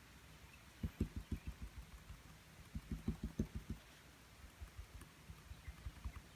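Paintbrush dabbing paint onto a small canvas: quick runs of dull taps, about eight a second. There are two stronger runs, then lighter, scattered taps near the end.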